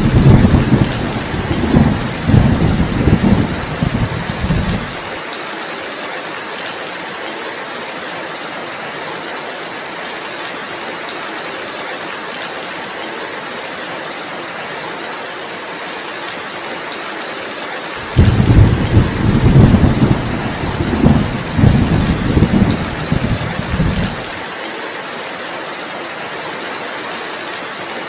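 Heavy rain falling steadily, with two rolls of low thunder: one rumbling at the start and dying away about five seconds in, and another starting about two-thirds through and lasting about six seconds.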